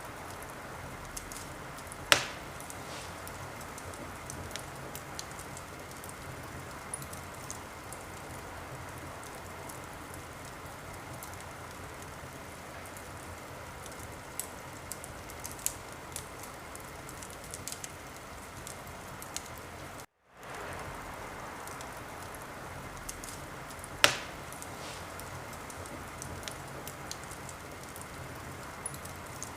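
Wood fire crackling in a fireplace: a steady hiss dotted with small crackles, with two loud pops, one about two seconds in and one near the end. The sound cuts out completely for a moment about two-thirds of the way through, then resumes.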